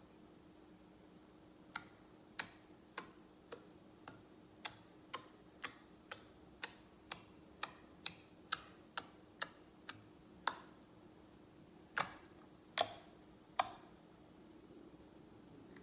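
Homemade slime being pressed and squeezed by hand, giving off sharp clicking pops about twice a second, then three slower pops near the end.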